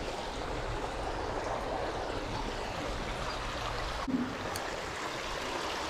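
Steady rush of running water in a drain channel. About four seconds in there is a brief click, and a low rumble underneath drops away.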